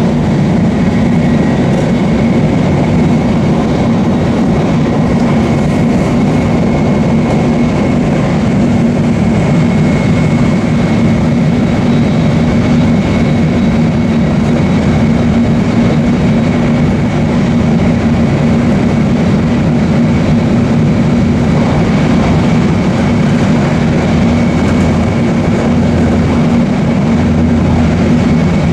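Nozomi Shinkansen bullet train running at speed, heard from inside the passenger cabin: a loud, steady, deep rumble with a faint high whine over it.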